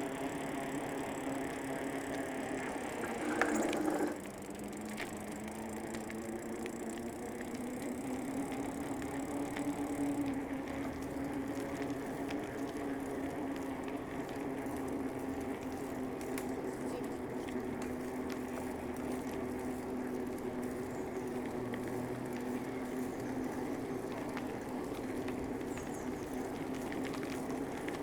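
Bicycle rolling along a paved path: a steady hum from the tyres and drivetrain, with a short loud rattle about three seconds in. After the rattle the hum drops in pitch, then rises again as the bike picks up speed.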